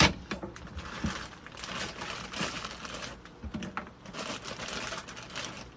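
Plastic bag of frozen broccoli crinkling as it is handled, in two rustling stretches with a few small clicks.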